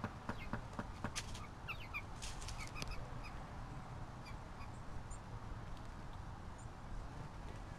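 Birds calling: a scatter of short chirps and sharp ticks, busiest in the first few seconds, over a steady low background rumble.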